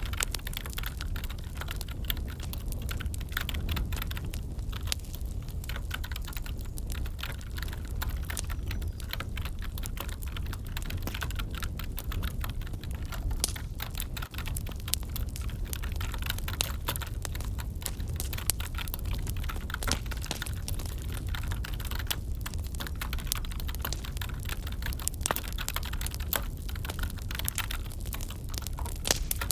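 Wood fire crackling in a fireplace over a low steady rumble, mixed with computer keyboard typing: many quick, irregular clicks.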